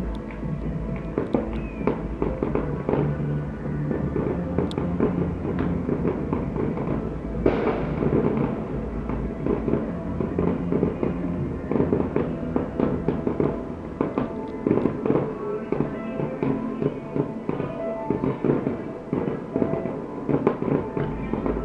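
Fireworks display: repeated bangs and crackling bursts of shells going off throughout, heard together with loud music played alongside the show.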